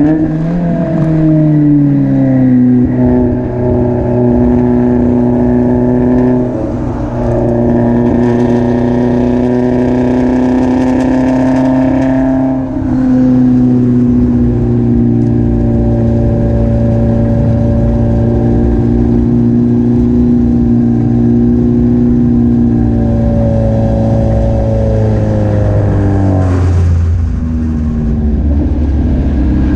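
Exhaust note of a Spec Miata's four-cylinder engine, heard from just above the exhaust while the car is driven hard on track: the pitch falls at the start, climbs slowly under throttle, dips at a gear change about twelve seconds in, holds high, then falls again near the end. The owner says the engine is still misfiring intermittently and is well down on power.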